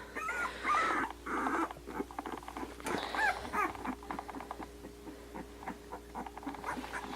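Two-week-old Australian Shepherd puppies squeaking and whimpering: many short, high squeals that rise and fall, some in quick runs.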